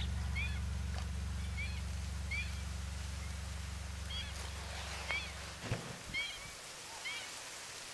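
Birds calling outdoors, short chirps repeated every half second to a second, over a steady low hum that cuts off about three-quarters of the way through, followed by a few light knocks.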